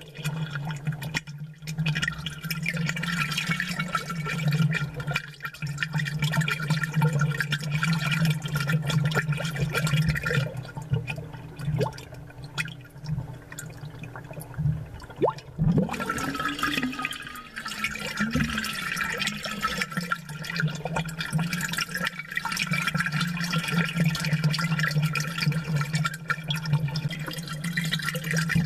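Amplified aquarium bubbling: a rapid stream of bubble pops and gurgles over a steady low hum. The bubbling thins for a few seconds around the middle, then picks up again.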